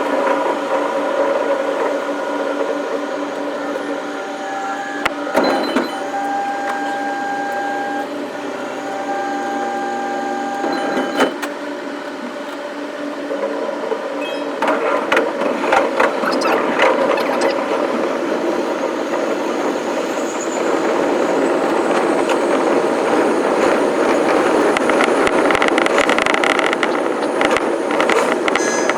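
JR East electric commuter train running, heard from inside the car. Steady motor and equipment tones over rumble fill the first half. From about halfway, rail and wheel noise grows louder, with wheels clicking over rail joints.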